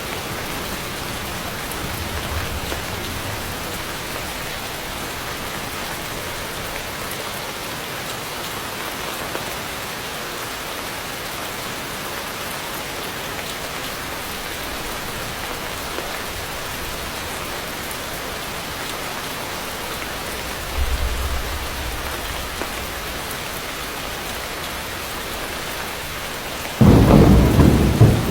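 Heavy rain falling steadily in an even hiss, with thunder: faint low rumbles about two seconds in and again past the middle, then a sudden loud thunderclap near the end.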